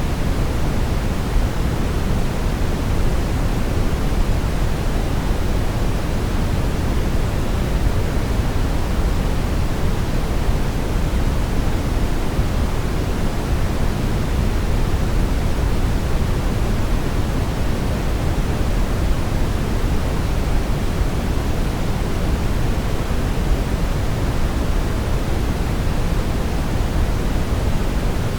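Steady synthetic brown noise: an even, deep rushing hiss, heaviest in the bass and fading toward the treble, with no changes or events.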